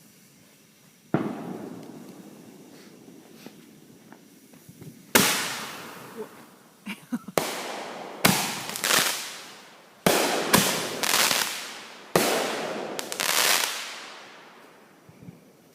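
Fireworks going off: a duller boom about a second in, then from about five seconds in a quick run of about ten sharp, loud bangs, each trailing off in a fading rumble.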